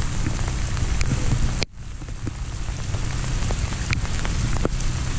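Freezing rain falling steadily, with a few scattered sharp ticks. About a second and a half in there is a sharp click and the sound briefly drops away before coming back.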